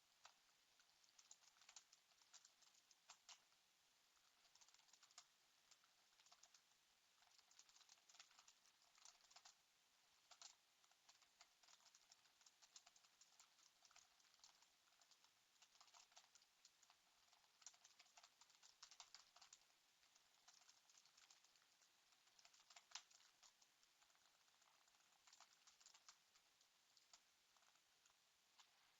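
Faint typing on a computer keyboard: irregular runs of quick key clicks broken by short pauses.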